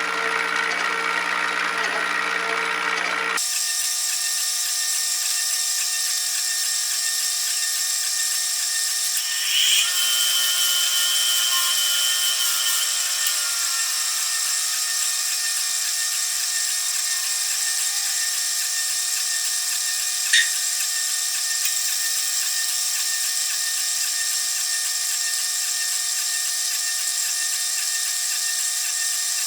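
A power tool motor runs steadily, with a brief higher whine about ten seconds in and a single sharp click about twenty seconds in.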